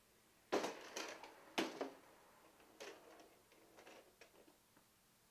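A few sharp knocks about a second apart, followed by fainter scattered ticks.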